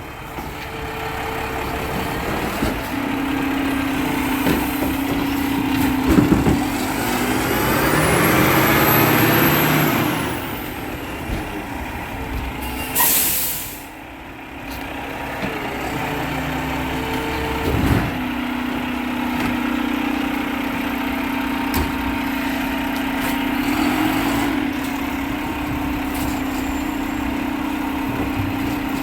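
Garbage truck's diesel engine running steadily. It revs up and back down several seconds in, then lets off a sharp air-brake hiss about halfway through before running on steadily.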